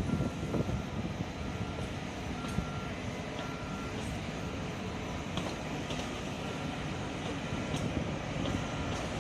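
Alishan Forest Railway train rumbling slowly, with scattered clanks, while an electronic warning beep sounds in short half-second pulses, on and off.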